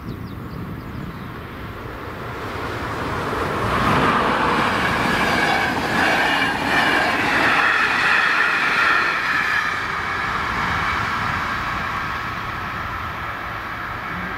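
Express passenger train of electric-line coaches passing over a level crossing. Its rumble builds a couple of seconds in, is loudest for about six seconds while the coaches go by, then fades as the train moves away.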